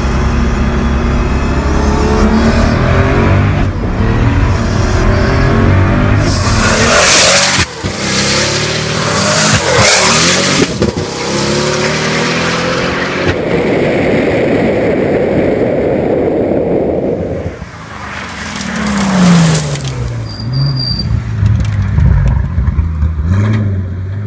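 Pagani Huayra BC's twin-turbo V12 engine revving and accelerating through gear changes, with several loud full-throttle bursts. Later its pitch falls as it slows, and near the end it settles to a low steady run.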